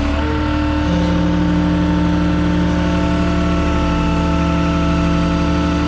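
Vehicle engine running steadily: a low drone with several steady whining tones over it, one tone coming in about a second in.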